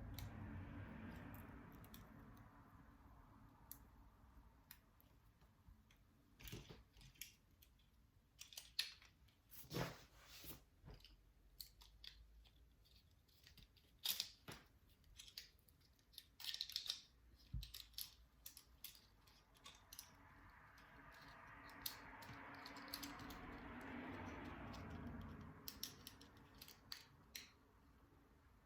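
Faint, scattered clicks and small handling sounds from hands working on a toy drone during a repair, with a soft rustling swell about twenty seconds in.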